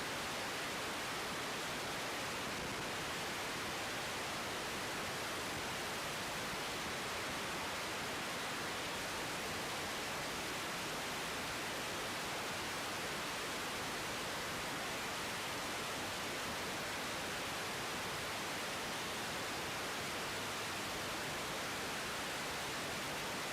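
Steady, even hiss of an air traffic control radio feed between transmissions, with no voice.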